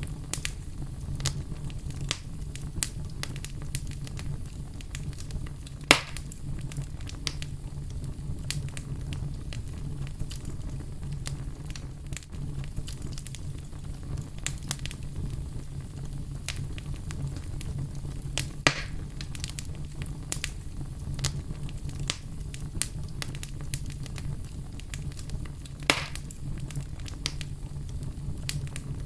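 Fire crackling steadily over a low rumble, with a constant scatter of small snaps and three louder pops spread through.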